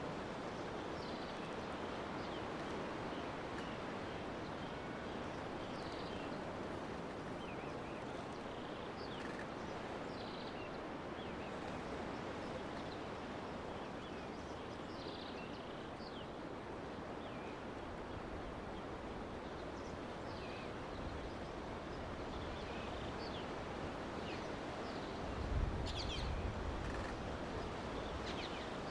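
Steady outdoor background noise of a field recording, with scattered faint short high chirps throughout and a brief low bump about 25 seconds in.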